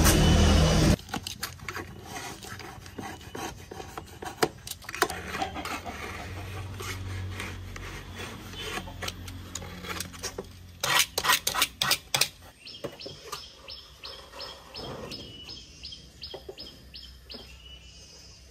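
Scattered sharp clicks and knocks, loudest in a cluster of clacks about eleven seconds in, then a bird chirping over and over, about three short high calls a second, for several seconds near the end.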